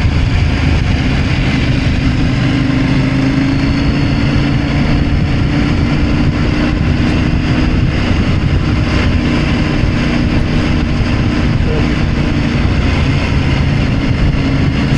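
Adventure motorcycle engine running at a steady cruising speed, with road and wind noise.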